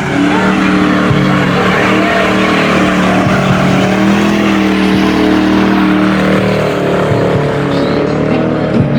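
Car engine held at high, steady revs, with a loud hiss of tire noise over it, as in a burnout or donut at a street takeover.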